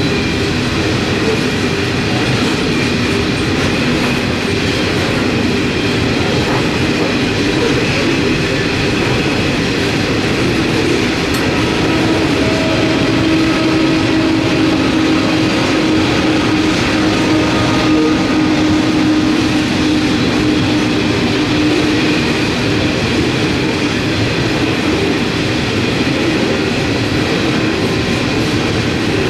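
Loaded coal train rolling steadily past, its wagons' wheels running over the rails with a continuous rumble and clickety-clack.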